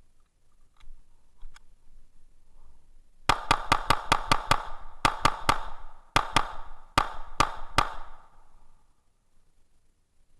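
A string of rapid gunshots, about fifteen in quick groups over some four and a half seconds, from an FNX-45 pistol in .45 ACP fired in strings from the holster.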